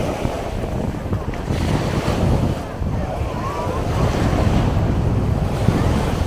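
Sea waves washing onto a beach, the surf swelling and easing, with wind on the microphone.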